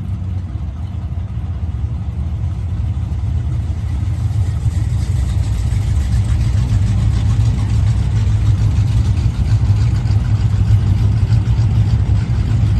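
Drag race cars' engines running at low speed, a steady deep rumble that grows gradually louder.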